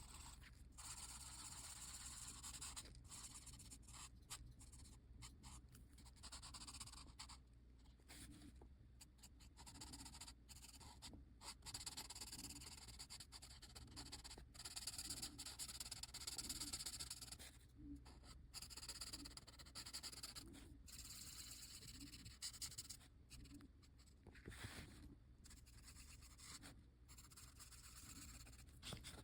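Faint scratching of drawing strokes on paper: many short strokes in quick runs, separated by brief pauses.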